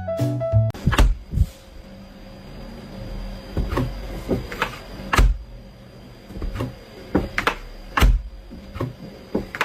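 Music cuts off under a second in. It is followed by about a dozen sharp, irregular knocks and thumps over a faint steady hum.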